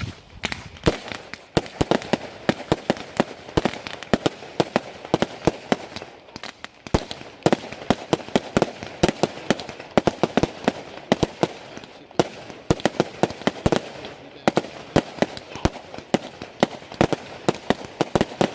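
Fireworks going off in quick succession: a continuous run of sharp, irregular cracks and bangs, several a second.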